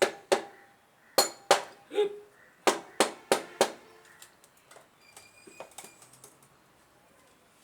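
Hammer tapping on metal engine parts: about nine sharp ringing strikes, mostly in quick pairs, over the first four seconds, then fainter clicks and light metal rattles as parts are handled.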